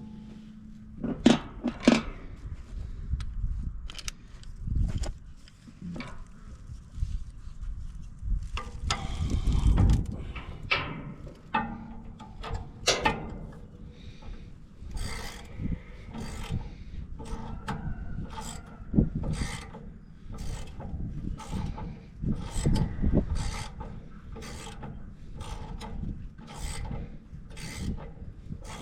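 Hand tools working the blade bolts of a wood chipper's knives: scattered metal clinks and knocks, then a steady run of ratchet-wrench strokes, about one and a half a second, as the bolts are snugged up.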